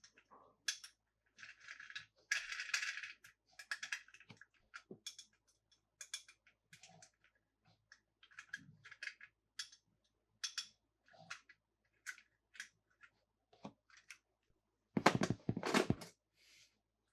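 Close-up handling sounds of toys and their packaging: scattered light clicks and taps with bursts of crinkly rustling. The loudest rustle comes about fifteen seconds in.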